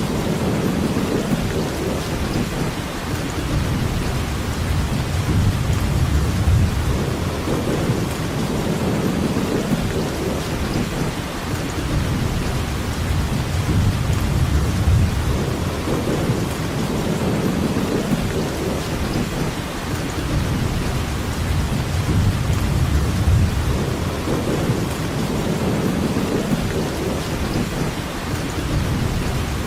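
Steady rain with a low rumble of thunder underneath that swells and eases every few seconds.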